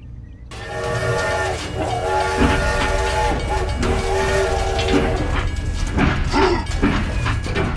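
Train horn sounding two long, steady chord blasts over a low train rumble, followed by irregular clattering.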